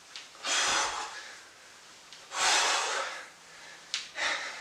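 A person breathing hard from exertion during a cardio exercise: three heavy breaths, two long ones about two seconds apart and a shorter one near the end.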